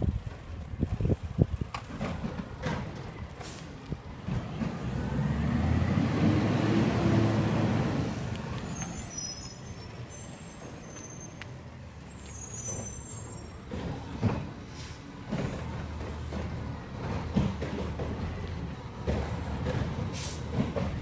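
Garbage truck collecting yard waste: knocks and clatter at first, then its diesel engine revs up and falls back for a few seconds, followed by high squeaks and more knocking over the running engine.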